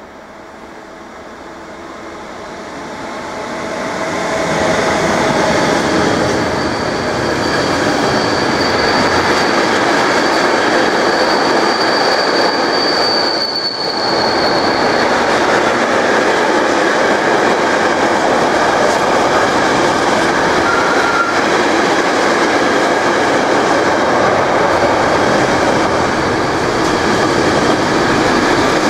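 Freight train passing through a station without stopping. The sound builds over the first few seconds as the locomotive approaches, then holds as a loud, steady rumble of passing wagons. A thin, high wheel squeal runs for several seconds about a third of the way in.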